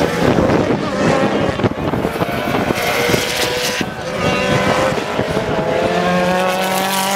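Competition car engine running at high revs, its pitch climbing steadily from about halfway through as the car accelerates.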